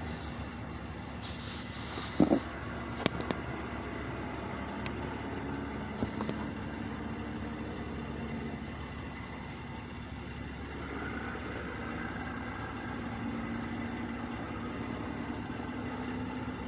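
Heavy trucks idling with a steady low drone. There are short hissing bursts and a few sharp clicks in the first few seconds.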